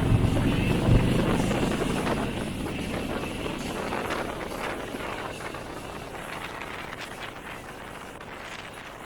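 Harley-Davidson Road Glide Special's V-twin engine running low and loud, fading away over the first couple of seconds and leaving a weaker, crackly noise that keeps getting quieter.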